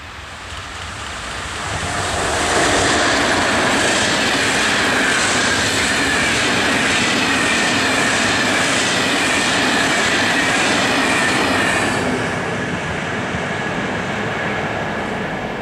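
Electric-hauled freight train of flat wagons passing close by: it swells as the locomotive comes up, then holds at a steady loud rolling with regular clicking of the wheels over the rails, about twice a second, and a high, slowly falling whine, and eases off near the end as the last wagons go by.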